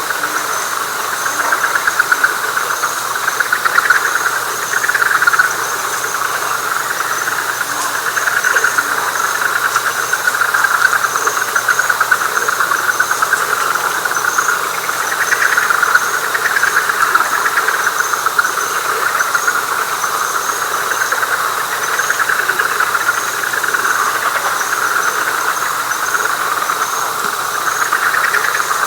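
Night chorus of frogs in a wet pine flatwoods: a dense, fast-pulsing trill that swells and eases. Above it, high chirps repeat about twice a second.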